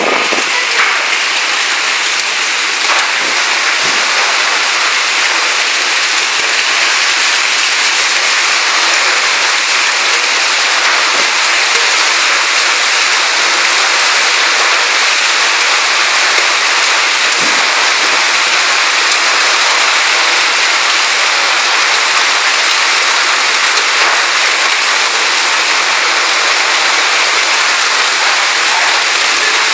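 Heavy hailstorm downpour: a loud, steady, dense patter of rain and hail hitting surfaces, with scattered sharper hits.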